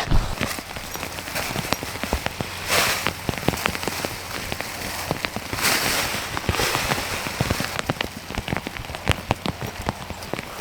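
Rain falling: a steady hiss with many separate drops striking sharply, and two brief louder swells of hiss about three and six seconds in.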